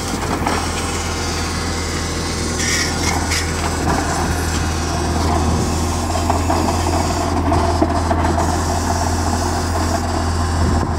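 Engines of a drilling rig, the tractor and its air compressor, running steadily at idle with a constant low hum. A short hiss about three seconds in.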